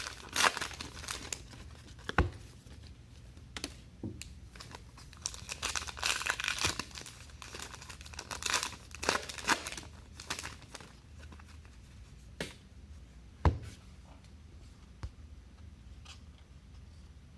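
Trading-card pack wrappers from a box of 2019 Allen & Ginter baseball cards being torn open and crinkled, in runs of crackly rustling through the first ten seconds or so. A few sharp taps follow in the second half.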